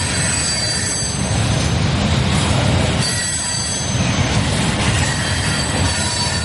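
Freight train cars, boxcars and centerbeam lumber flatcars, rolling past: a steady low rumble of steel wheels on rail, with a thin high squeal from the wheels over it.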